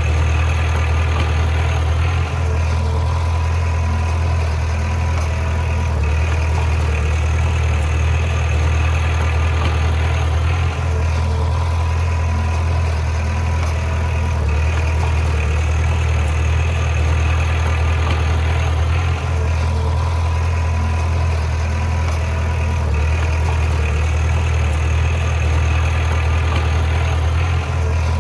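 Bulldozer's diesel engine running steadily with a deep, even hum, its higher-pitched sound shifting about every eight or nine seconds.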